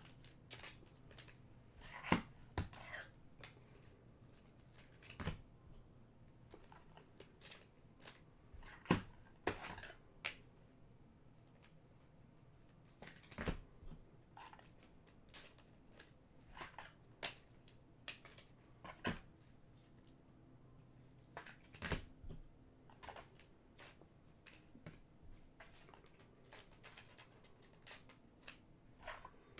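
Trading cards being handled: faint, irregular clicks and rustles as cards are slid and flicked against one another.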